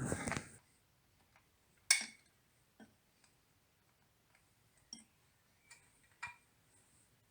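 A short scrape at the start, then about five sparse, sharp metallic clicks and taps of hand tools on the fan and water pump, the loudest about two seconds in.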